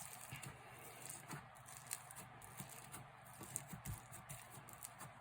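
Faint, scattered soft clicks and squishes of slime being handled and pressed in the hands.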